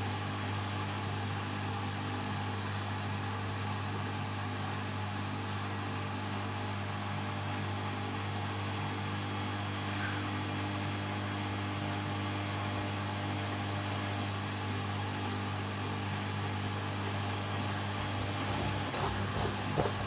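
LG washing machine running with a steady electric hum during a suds-lock phase of its Normal cycle. A short patch of irregular sounds comes near the end.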